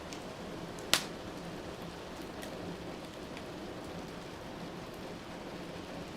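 Steady rain hiss mixed with a wood fire in a fireplace, a few faint crackles, and one loud sharp pop about a second in.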